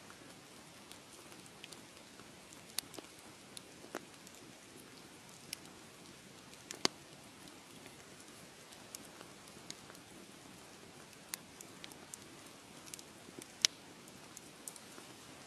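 Wood fire crackling: a low steady hiss with scattered sharp pops, two of them louder, about seven and thirteen seconds in.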